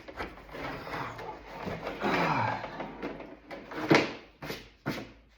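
Plastic car door trim panel being flipped over and handled on a work surface: scraping and rubbing, a sharp knock about four seconds in, then a couple of lighter clicks.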